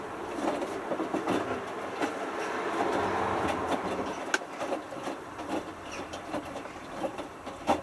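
Hotpoint Futura HF8B593 washing machine drum tumbling a small load during the main wash of a whites cycle. Water and fabric swish in a swell that builds over the first few seconds and eases off, with scattered clicks and knocks.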